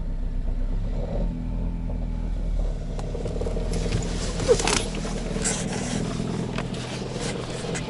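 Ford engine idling just after a cold start with the clutch pedal held down, a few sharp knocks sounding over the steady idle, the loudest about four and a half seconds in. The owner takes the knock for a failing dual-mass flywheel or a worn gearbox input shaft.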